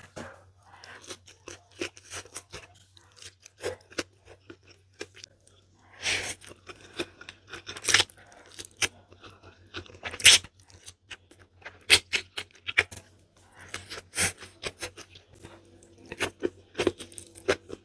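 Close-up eating sounds: a person chewing spicy instant noodles stuffed in by hand, with irregular wet mouth clicks and several longer noisy smacks and sucks.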